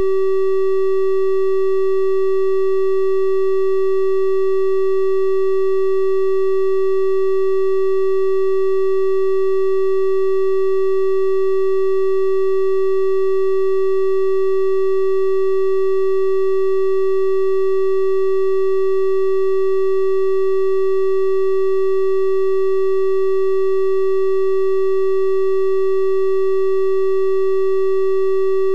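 A synthesized 384 Hz triangle-wave tone held steady and unchanging, a pure hum with faint higher overtones.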